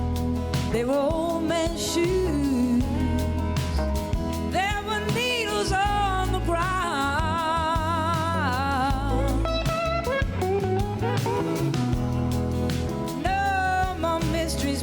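Slow blues-soul ballad played live by a band, with sliding, wavering guitar or vocal melody lines over a steady bass. The melody is most active about a third of the way in and again near the end.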